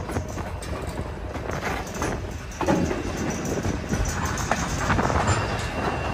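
Passenger train car rolling along the track: a steady rumble of wheels on rails with scattered, irregular clicks and clatter.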